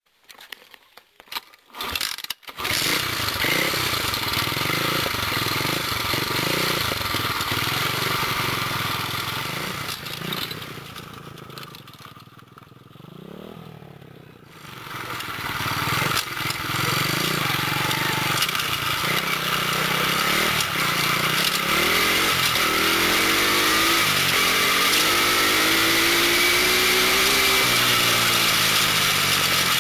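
A 125 cc pit bike's single-cylinder engine sputters for a couple of seconds and catches, then runs steadily. It drops away for a few seconds midway, comes back up, and near the end revs with rising and falling pitch.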